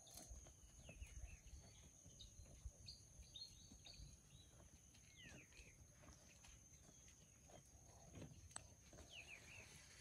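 Quiet outdoor ambience with faint, short bird chirps scattered through, a few in clusters a couple of seconds apart, over a low steady rumble.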